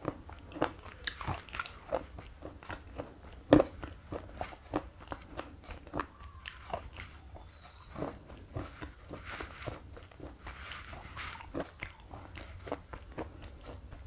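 Slate pencil being chewed: irregular sharp crunches, a few a second, with one louder crunch about three and a half seconds in.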